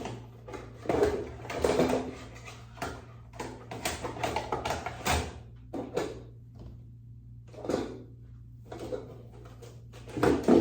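Irregular clicks, knocks and rustles of makeup containers and cases being handled and opened, with a faint steady low hum underneath.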